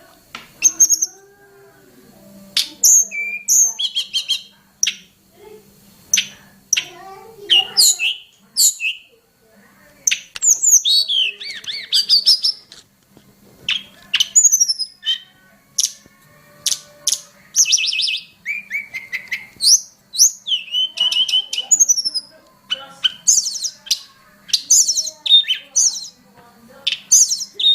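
A tledekan gunung songbird singing a long run of varied phrases: rapid high chirps, trills and sweeping whistled notes, separated by short pauses. A faint steady low hum lies underneath.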